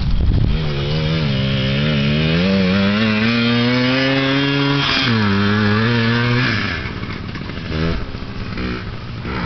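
Dirt bike engine accelerating, its pitch climbing for several seconds, dropping sharply at a gear change about five seconds in, then climbing again before easing off and getting quieter after about six and a half seconds.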